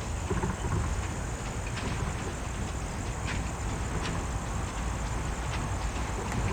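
Low, steady engine rumble from a vehicle, with a thin, steady high whine above it and a few faint clicks.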